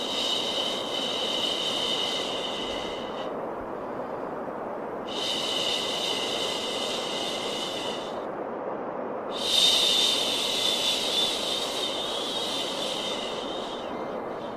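Steady white noise with three long "shhh" shushing sounds laid over it, each lasting about three to four seconds with short gaps between, the kind used to calm a colicky baby to sleep.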